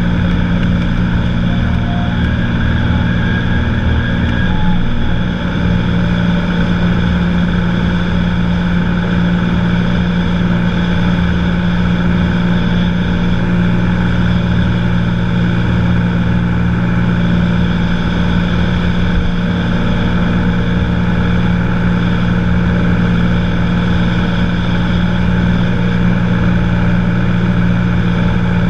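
Cessna 182's single piston engine and propeller droning steadily in flight.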